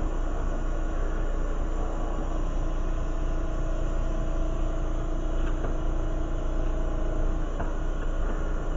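Steady rumbling rush of a lampworking torch flame at the glassworking bench, with a low hum beneath it and a few faint clicks of glass or tools.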